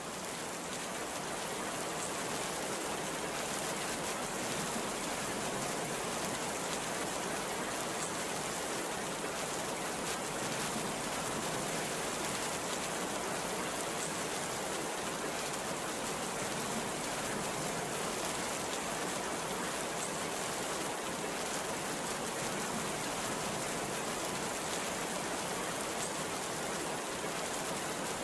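Very heavy rain pouring down in a steady, dense hiss, with no breaks or thunderclaps.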